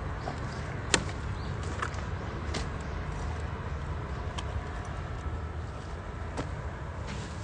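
Wood fire crackling in a UNIFLAME Nature Stove Large: scattered sharp pops over a steady low rumble, the loudest pop about a second in.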